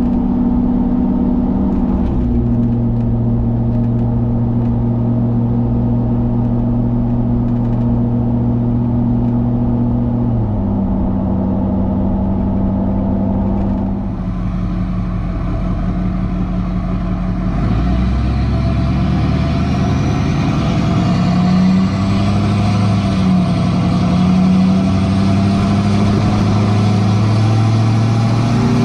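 Straight-piped 6.6 L LBZ Duramax V8 turbo-diesel of a 2007 Chevy Silverado 2500HD, heard on the move: the engine note steps to a new pitch several times, like gear changes. From about halfway it pulls harder, with a high whistle rising steadily, typical of the turbo spooling.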